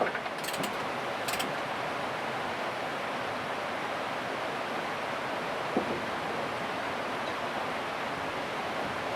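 Steady rushing outdoor noise, with a few light clicks in the first second and a half and a single knock about six seconds in.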